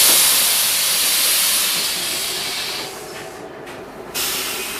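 A sudden loud hiss from an LM-99K tram fades over about three seconds. A second hiss starts near the end.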